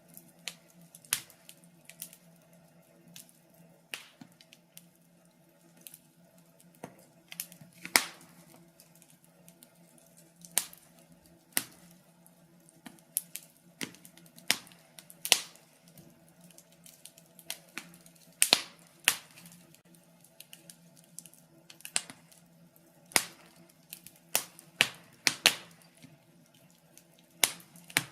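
Wood fire crackling in a fireplace: irregular sharp pops and snaps, sometimes several close together, over a faint steady hum.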